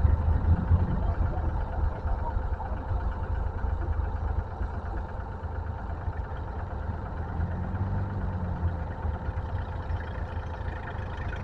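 Tractor engine idling steadily with a low rumble, its pitch lifting slightly and settling again about two-thirds of the way through.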